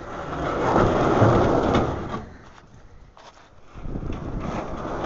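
Strong wind buffeting the microphone in gusts: a loud rumbling rush for about two seconds, a short lull, then another gust building up.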